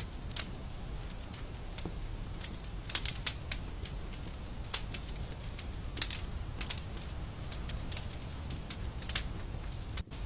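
Wood fire crackling: irregular sharp pops and snaps over a steady low rumble of burning, with a brief dropout near the end.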